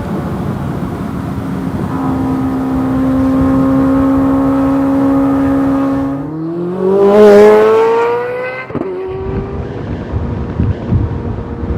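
2023 Chevrolet Corvette Z06's 5.5-litre flat-plane-crank LT6 V8 running on track: it holds a steady pitch for a few seconds, then revs up, rising and loudest about seven seconds in, and drops off suddenly near nine seconds, settling into lower, uneven running with a few sharp pops.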